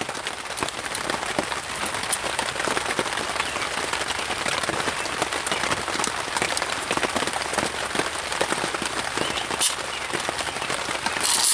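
Steady rain pattering on a tarp tent, heard from inside under the tarp.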